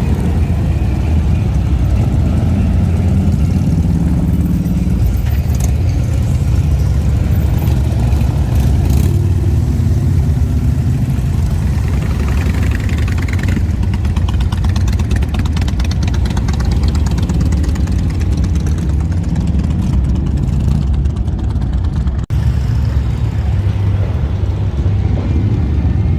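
Motorcycle engines running and idling in slow street traffic, a loud continuous low rumble.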